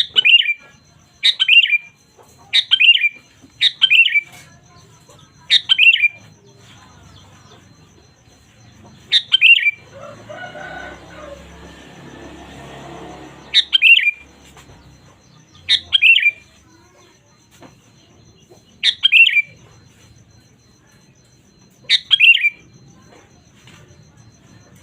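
Sooty-headed bulbul (kutilang) giving short, loud calls that drop in pitch, about ten of them, some in quick pairs, spaced one to several seconds apart. A fainter, longer sound runs underneath around the middle.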